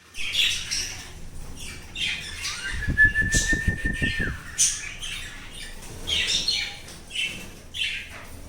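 Young parrot chicks (lovebird or budgerigar nestlings about fifteen days old) giving short, raspy calls over and over. About three seconds in, a steady held tone and a low rumble run underneath for about a second and a half.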